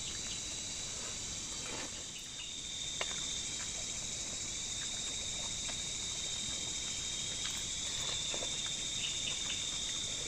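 Night insect chorus of crickets and similar insects, trilling steadily and high-pitched, with one thin steady tone running through it and a few faint clicks.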